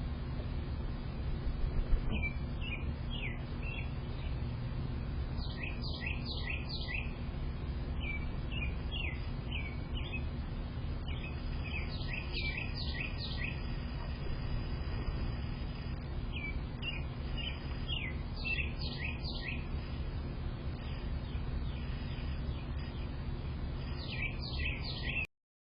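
A songbird singing short phrases of quick, falling notes, repeated every few seconds over a steady low background rumble; the sound cuts off near the end.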